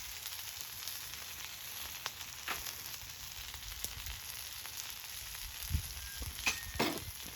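Food sizzling in a pan, a steady frying hiss with a few light knocks and clicks near the end.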